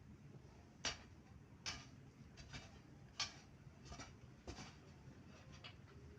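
A few short, sharp knocks at irregular intervals, the loudest near the start and about three seconds in.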